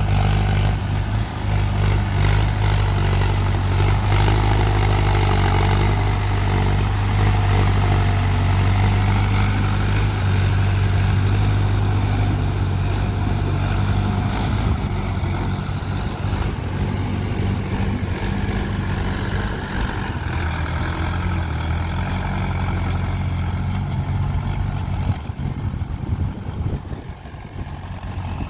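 Tractor diesel engine running steadily at a constant speed, a loud low hum, easing off slightly near the end.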